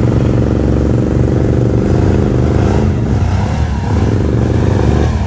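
ATV engine running at a steady idle, its note briefly dipping and shifting about three seconds in.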